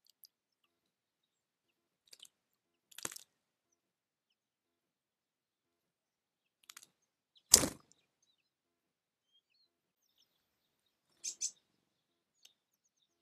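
Birds at a feeder: a few short, sharp chirps and cracks scattered over otherwise quiet seconds, the loudest a sharp knock about halfway through.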